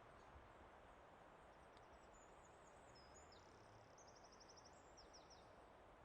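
Faint forest ambience: a steady soft rushing background, with a small songbird singing high chirps and a fast trill from about a second and a half in until near the end.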